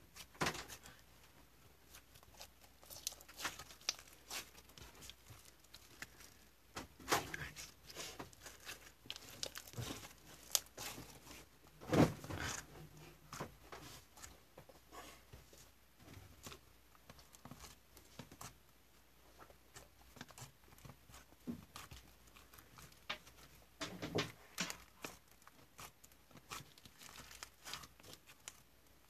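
Slime being squeezed, poked and stretched by hand, giving irregular sticky crackles and small pops, with one louder pop near the middle.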